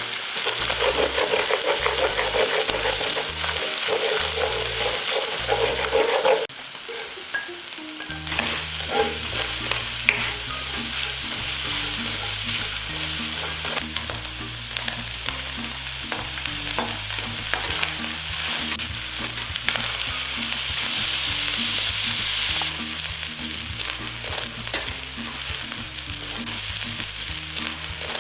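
Food sizzling and frying in a hot pan while being stirred, with the small clicks and scrapes of the stirring utensil. The sizzle drops off sharply about six seconds in, then picks up again a second or two later.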